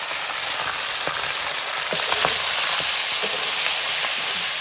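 Chicken meat frying in hot oil in a pan: a steady sizzle with scattered small pops and crackles.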